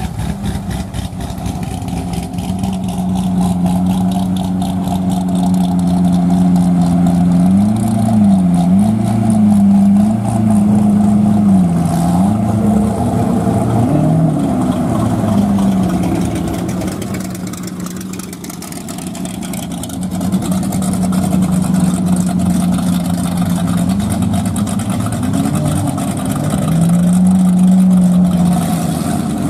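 A car engine idling steadily, with a run of quick throttle blips in the middle, each rising and falling in pitch, and another blip near the end.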